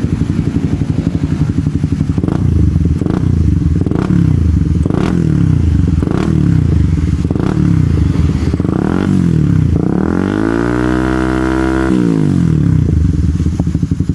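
Motorcycle fitted with an Indolingga aftermarket racing exhaust, idling, then blipped through a quick run of about ten short throttle blips. Then one longer rev is held for about two seconds before it drops back to idle.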